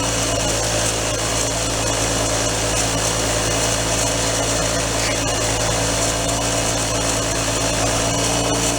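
Motor-driven wire wheel running steadily, its wire bristles scrubbing the flange of an old Honda Cub 50 cast cylinder clean to show whether a mark on it is a crack.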